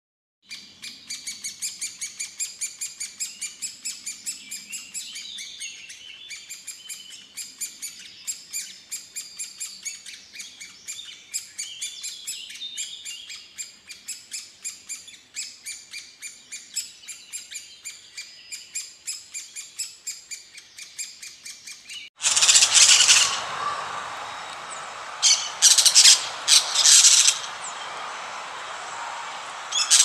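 Small birds chirping in quick, steady succession, about four chirps a second, high in pitch. About 22 seconds in the sound cuts abruptly to a louder scene with a steady hiss and several loud calls a few seconds later.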